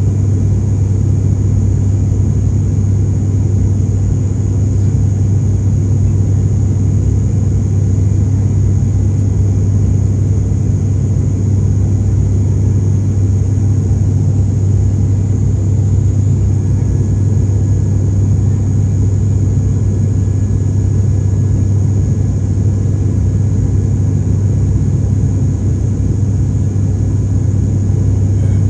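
Airliner cabin noise in flight: the steady low drone of the engines and the air rushing past, with a faint high whine above it.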